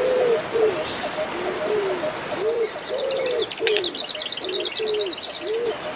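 Bird calls: a series of short, low cooing notes, each rising and falling in pitch, about one and a half a second. A rapid high chirping trill comes in over them around the middle, with a steady high insect hiss behind.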